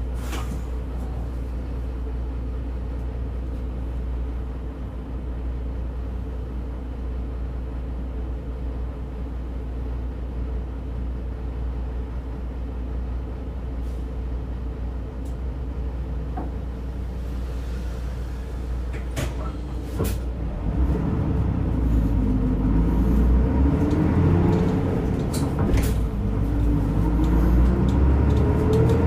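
Diesel engine of a route bus heard from inside the cabin: running steadily and low for about twenty seconds, then louder as the bus accelerates, its pitch rising several times in turn through the gears.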